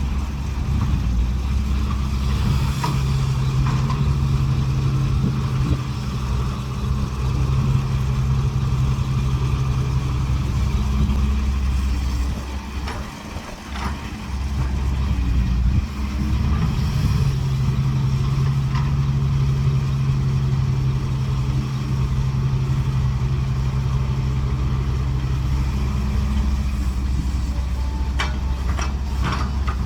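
Diesel engine of a Cat 312 hydraulic excavator running steadily under load as it loads earth onto a truck. The engine note drops for a few seconds about halfway, then comes back up, and a few sharp knocks come near the end.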